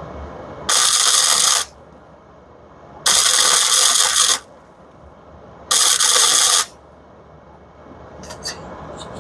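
Welder laying three short tack welds on exhaust pipe: three bursts of about a second each, starting and stopping abruptly, with pauses between. A few light clicks near the end.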